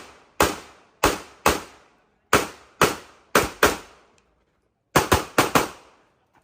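CZ Shadow 2 pistol firing about eleven shots in a stage of practical shooting: quick pairs a half-second or less apart, then a fast string of four shots about five seconds in. Each shot is a sharp crack with a short decaying tail.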